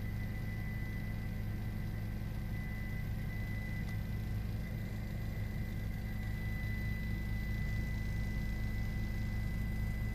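Steady engine and rotor drone of a helicopter, heard from inside the cabin, deep and unchanging with a thin constant whine above it.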